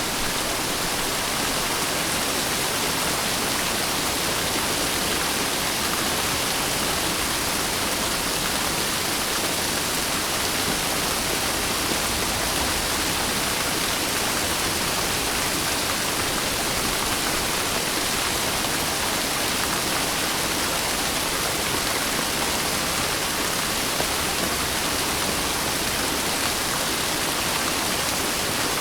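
Steady rain falling as an even, unbroken hiss with no distinct drops standing out.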